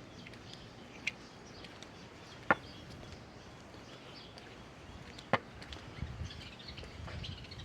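Faint steady background noise broken by three sharp clicks or taps, at about one, two and a half and five and a half seconds in, the middle one the loudest.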